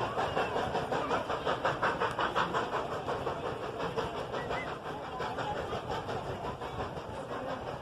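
Steam locomotive exhaust chuffing in a steady rhythm of about four or five beats a second, slowly growing fainter.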